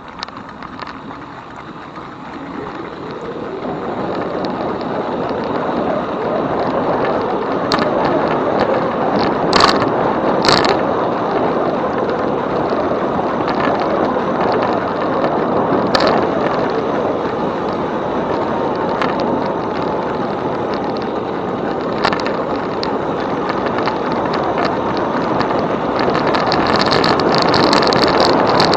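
E-bike rolling along a trail: a steady rush of tyre and wind noise that grows louder over the first few seconds, with a few sharp clicks and rattles. A higher hiss joins near the end.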